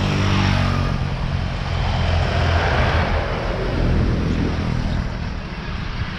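Road traffic: a motor vehicle passing by, with a steady low rumble and a swell of noise that peaks about two to three seconds in.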